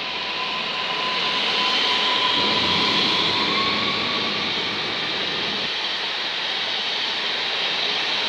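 EN78 electric multiple unit passing close by at speed: steady rolling and rushing noise with a thin traction-motor whine that rises slightly about three seconds in. The noise swells to its loudest a couple of seconds in and stays strong.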